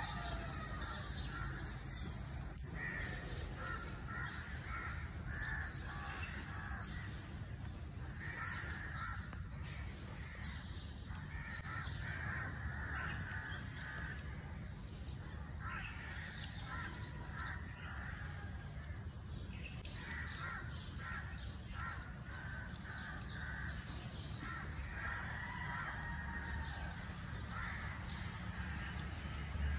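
Birds calling in repeated short bursts of a few notes each, every couple of seconds, over a steady low rumble.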